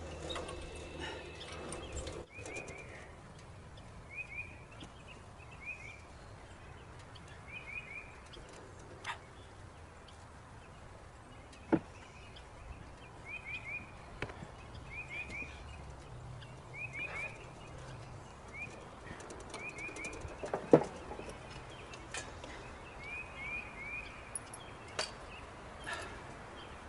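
A songbird calling again and again in short groups of two or three quick, falling chirps every second or two, over quiet outdoor background. A steady low mechanical hum stops about two seconds in, and there are a few sharp knocks, the loudest about twelve and twenty-one seconds in.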